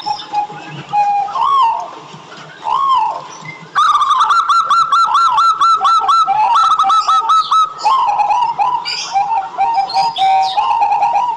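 Zebra dove (local Indonesian perkutut) cooing. A few separate coo notes come first, then from about four seconds in a loud, fast run of rapid staccato coos. Toward the end they slow to a looser series.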